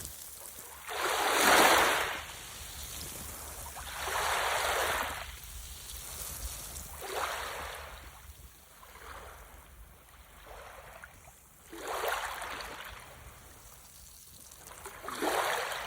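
Small sea waves washing onto the shore, a swell of surf roughly every three seconds, over a low wind rumble on the microphone.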